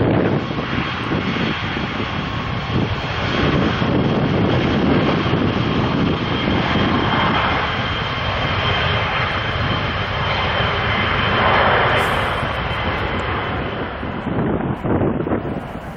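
Jet airliner engines running as the aircraft passes: a loud, even roar with a steady high whine on top, easing off near the end.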